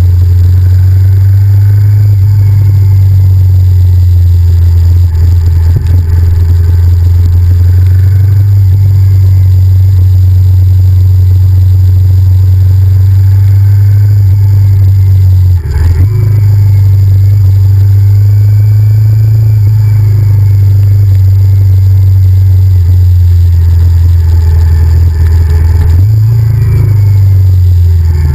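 Honda VTR1000F's V-twin engine running loud and steady while riding, with a brief dip about halfway through and a change in engine note near the end.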